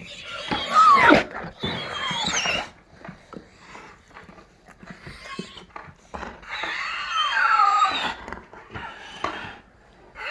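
Dog whining and grumbling in long, wavering spells, its pitch sliding up and down. There are two spells, one in the first few seconds and another past the middle, with quieter snuffling sounds between them.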